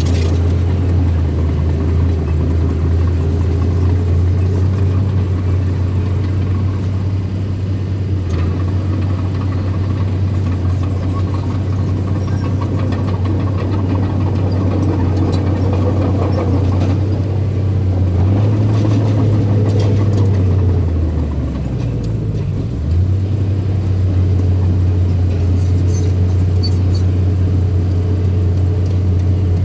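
Diesel engine of a small bulldozer running steadily under work, its pitch sagging briefly about two-thirds of the way through before picking back up.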